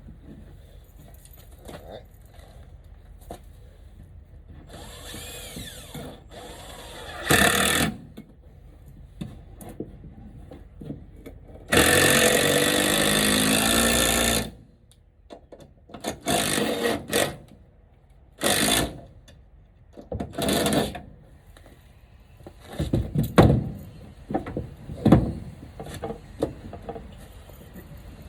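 Power drill driving screws into a wooden frame: several short runs of the motor and one steady longer run of about three seconds partway through, with knocks and handling of the wood between.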